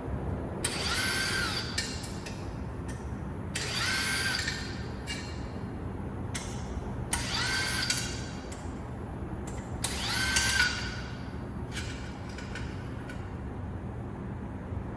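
Power drill run in four short bursts a few seconds apart, each spinning up, holding for about a second and winding down, with light clicks of tool and parts in between.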